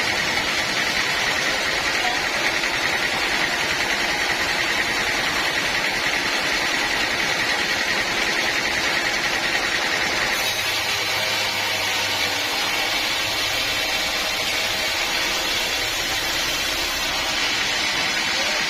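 Sawmill machinery running steadily, a continuous machine drone. About ten seconds in, the sound shifts: a low hum and a higher hiss come in.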